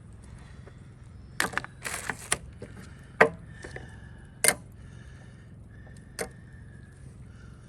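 Sharp clicks and knocks from cooking over a campfire: a quick cluster about a second and a half in, then single loud knocks near three, four and a half and six seconds in, over a low steady hum.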